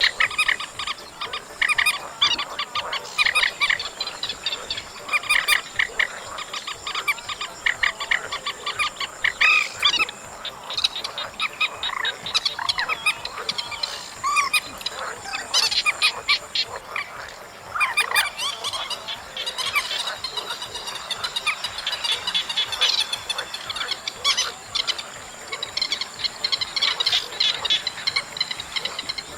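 Recorded calls of the trích ré, a Vietnamese rail-family waterbird, used as a trapping lure. The bird calls continuously in fast series of short, rattling notes, one series after another.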